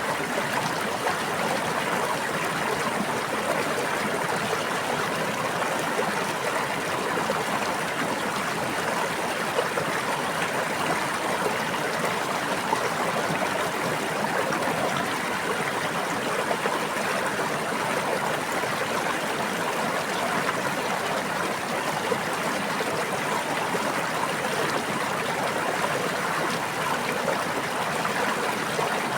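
Steady running water of a stream or brook, an even babbling flow with no breaks.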